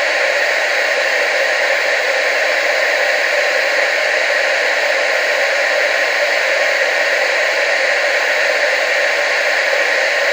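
TV static: a steady, even hiss with no breaks or changes, thin in the bass and fullest in the middle and upper range.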